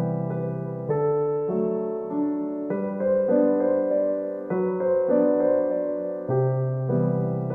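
Soft solo piano music: slow, gentle chords and melody notes sustained and changing about every second.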